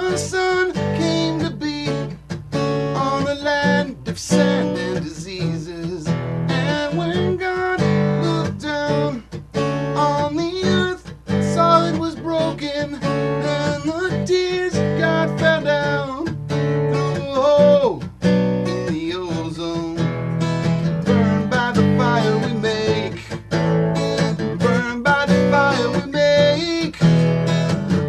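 Guitar playing an instrumental passage, picked and strummed notes over sustained low notes, with several notes bent up and down in pitch.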